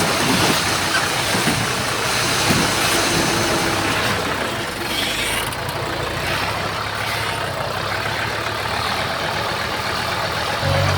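Heavy diesel earthmoving machine engine running steadily, with a few knocks in the first seconds.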